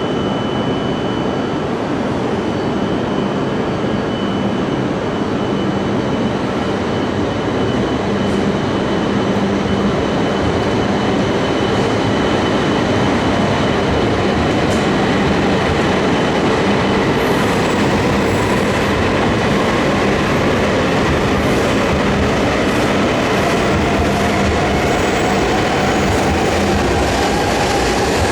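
Shinkansen train moving through a station platform: a steady rumble of wheels on rails with a thin high tone through the first half, and a whine rising in pitch near the end.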